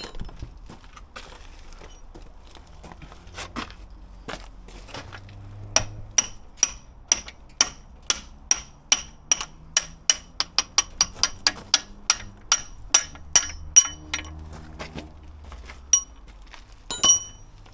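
A hammer strikes steel in a long run of ringing metallic blows, about three a second, that quicken in the middle. Two more strikes follow near the end.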